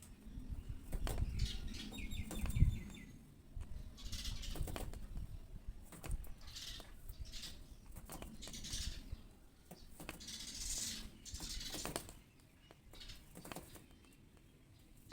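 A small bird fluttering its wings in short, irregular bursts, with a few brief chirps in the first few seconds and a low thump about two and a half seconds in.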